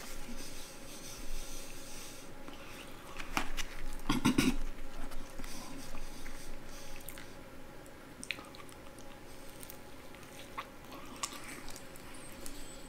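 Close-up chewing of fried chicken, with short clicks and crackles from the mouth and the food, and one louder stretch about four seconds in.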